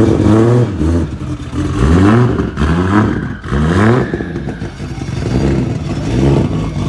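Car engine revving in quick rising sweeps, about four in the first four seconds, then running more steadily.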